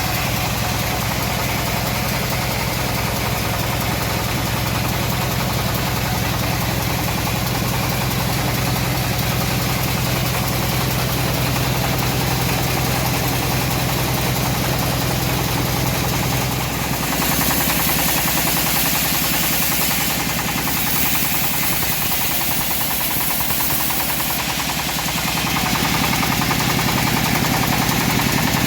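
Engine of a homemade bandsaw sawmill running steadily. Past the middle the low hum weakens and a high hiss comes in for several seconds; toward the end a broader rushing noise builds.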